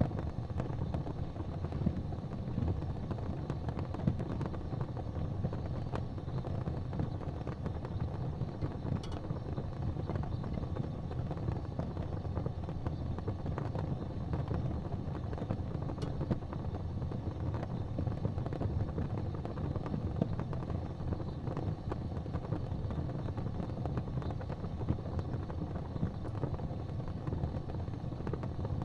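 Fire burning in a fireplace: a steady low rumble of flames with a few sharp crackles now and then.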